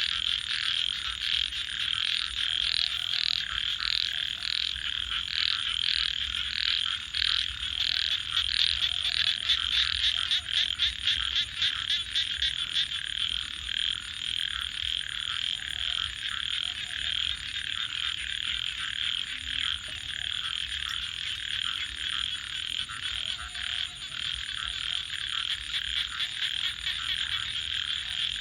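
A dense night chorus of frogs calling steadily. One caller repeats a pulsed note about twice a second for the first ten seconds, then a rapid trill follows, with occasional lower croaks mixed in.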